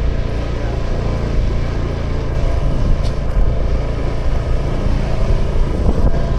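Honda Vision scooter's small single-cylinder engine running steadily while riding at an even speed, with road and wind noise.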